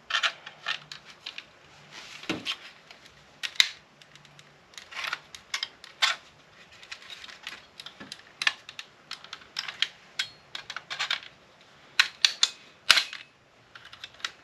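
Irregular sharp clicks, taps and clinks of hand tools working small metal and brass parts of a dismantled battery backup unit, coming in quick clusters with short pauses between.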